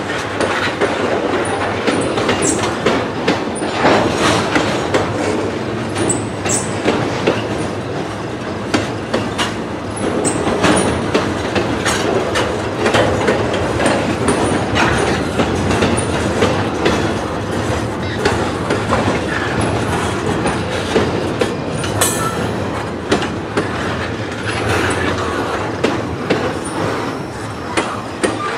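Freight train cars rolling past, their wheels clicking over rail joints, with brief high wheel squeals now and then.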